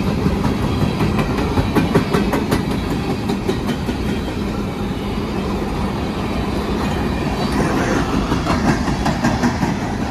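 Empty coal gondola cars of a freight train rolling past, a steady rumble with runs of quick clicks as the steel wheels cross rail joints.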